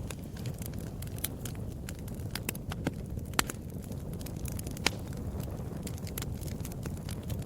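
Wood fire crackling: irregular sharp pops and snaps over a low steady rumble of flames, with two louder pops around the middle.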